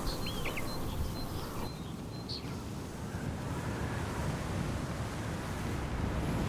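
Outdoor ambience: a steady rush of wind noise with low rumble underneath, and a few short bird chirps in the first two and a half seconds.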